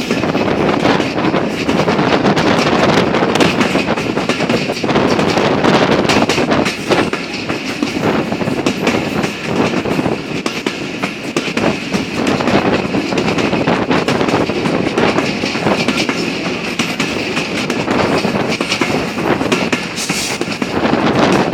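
A train running along the track, a steady rumble and rush with many irregular clicks of the wheels over the rails.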